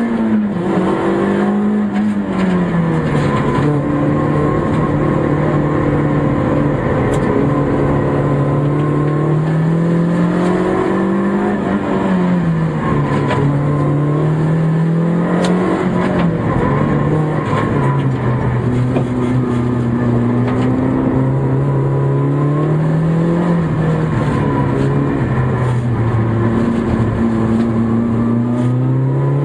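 Citroën Saxo N2 rally car's four-cylinder engine heard from inside the cabin, revving hard and dropping back again and again as the car is driven flat out through gear changes and braking. Wind buffets the microphone under the engine.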